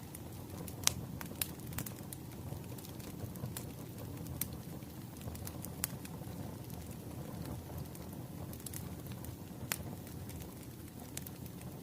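Burning firewood crackling: scattered sharp pops and snaps over a steady low rumble, with the loudest pop about a second in.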